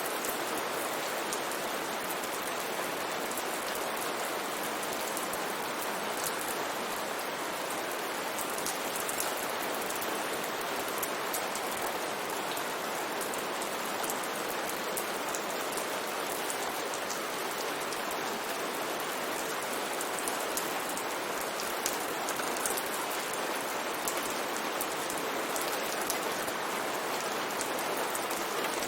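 Steady rain falling, an even hiss with many fine drop ticks over it.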